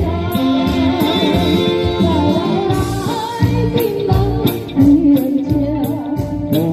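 A band playing a song: a voice sings the melody over guitar, with a steady beat of cymbal ticks.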